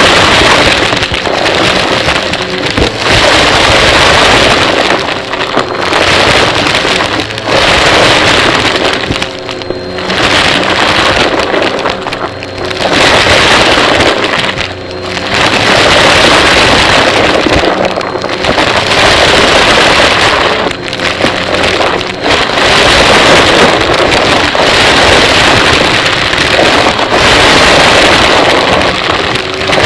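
Vacuum cleaner running loud, a rushing airflow noise that swells and dips every two to three seconds as it is worked back and forth.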